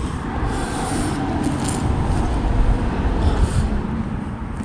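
Rubbing and scraping of plastic as the door speaker is worked loose from a Mercedes W203 front door, over a steady low rumble.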